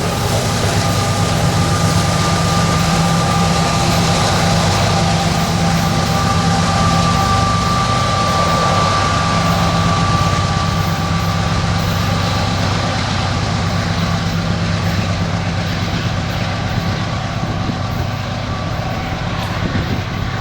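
Diesel-hauled freight train passing, its locomotive engines giving a steady low rumble under the noise of the rolling cars, with a steady high whine running over it.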